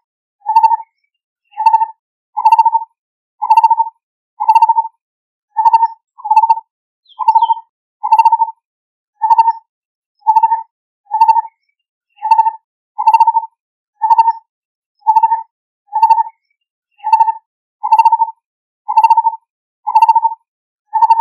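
Lineated barbet calling: a mellow, low hooting note repeated evenly about once a second, each note short and at the same pitch.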